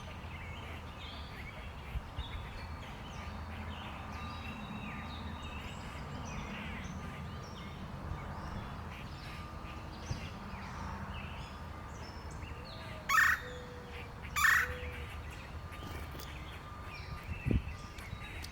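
Backyard birds chirping and twittering over a steady low background rumble, with two loud, harsh calls about a second apart past the middle and a brief low thump near the end.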